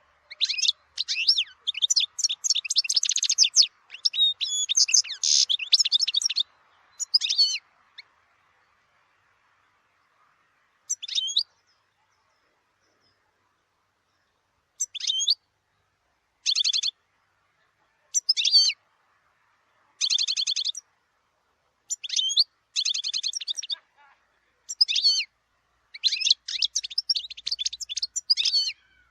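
European goldfinch singing with quick twittering trills: a long run of song, a pause of a few seconds, then short phrases every second or two, growing denser again near the end.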